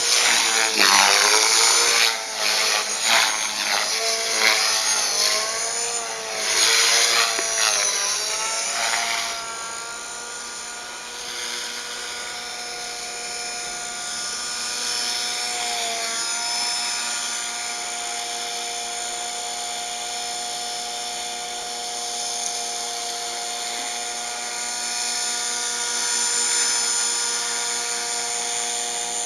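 250-size RC helicopter's motor and rotors whining as it flies 3D aerobatics. The pitch swoops up and down repeatedly for the first nine seconds or so, then settles into a steady whine.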